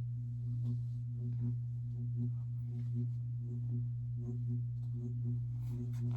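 Steady low electrical hum with fainter overtones that swell and fade about every three-quarters of a second.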